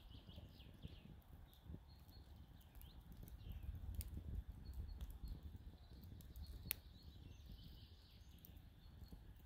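Faint outdoor ambience: small birds chirping over a low rumble, with two sharp clicks about four and seven seconds in.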